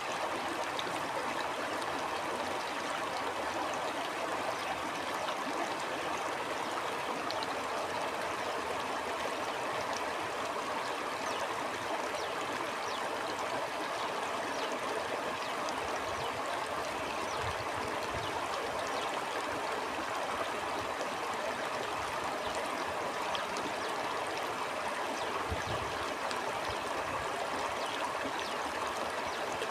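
A stream flowing steadily, an even, unbroken rush of water. A few brief low rumbles of wind come through a little past halfway and again near the end.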